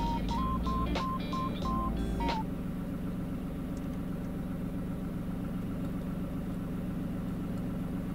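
A short run of electronic beeping notes for the first two seconds or so, then the steady low hum of a car engine idling, heard from inside the cabin.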